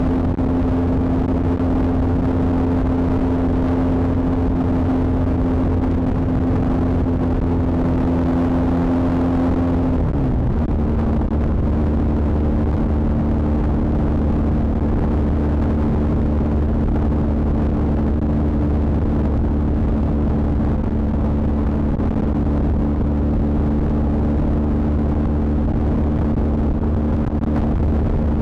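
BMW R 1250 GS Adventure's boxer-twin engine running at steady revs while riding. About ten seconds in the pitch drops slightly, then holds steady again.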